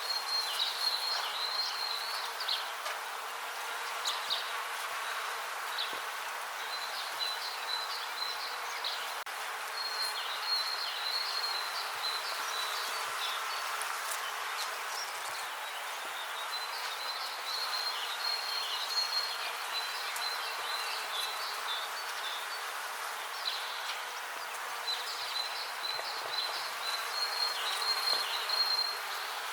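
Many bees buzzing in a steady drone, with high chirping phrases repeated every few seconds over it.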